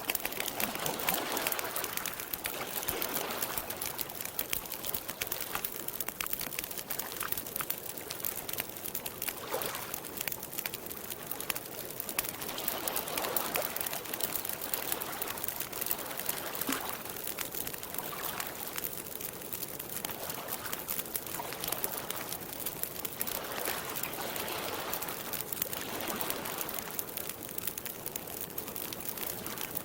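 Campfire crackling with many small, rapid pops, over water lapping in soft swells every couple of seconds.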